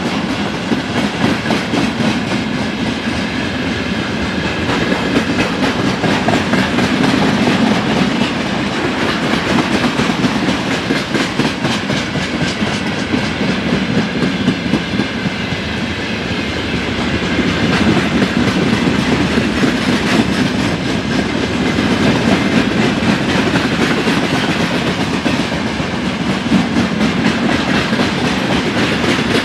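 A train hauled by a GE C36-7i diesel locomotive rolling past close by, its wagons' steel wheels clattering steadily on the rails in a loud, continuous rumble.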